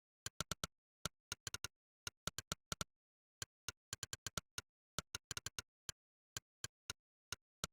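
Monkeytype's 'click' keypress sound effect, one short click per keystroke, coming in an irregular typing rhythm with quick flurries of several clicks a second and brief pauses between words.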